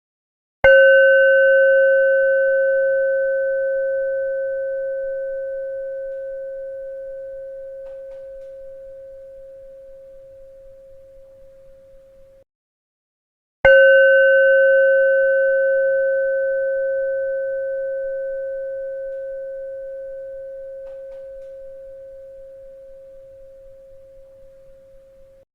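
A bell struck twice, about thirteen seconds apart. Each strike rings with a clear, steady tone and a few fainter higher overtones, fading slowly over about twelve seconds and then cutting off suddenly shortly before the next strike.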